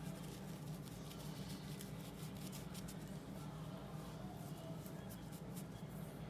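Faint, quick scratchy ticks of a paintbrush dabbing and dragging oil paint on paper, over a low steady hum.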